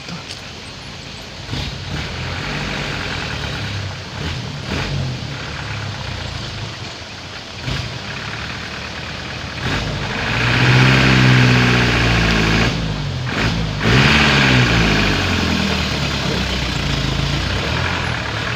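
Palm-oil truck's engine running as the truck works along a muddy road, revving up hard about ten seconds in and again a few seconds later, with the pitch rising and falling.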